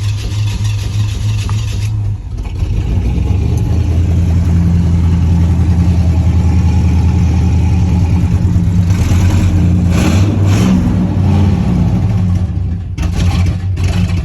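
A truck engine running just after starting. It settles about two seconds in, then picks up to a steady fast idle, with a few sharp clacks near the middle and again near the end.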